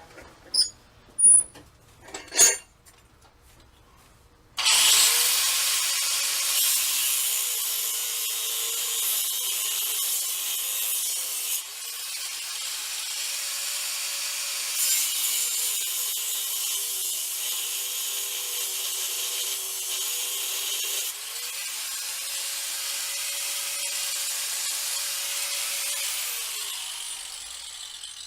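Power tool cutting into a steel railroad spike: a few knocks, then a steady, high cutting noise starting suddenly about four and a half seconds in. It dips briefly twice and fades away near the end.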